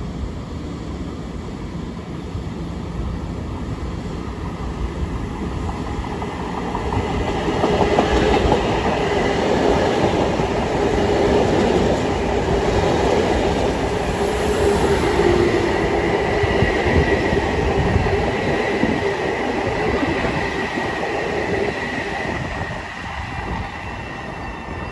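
Long Island Rail Road train passing, growing louder about seven seconds in and easing off near the end, with wheels clacking over the rail joints and a steady high whine.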